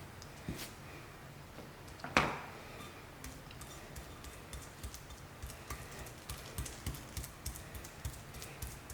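Scattered light clicks and taps, with one sharper knock about two seconds in and a quick run of small ticks in the second half.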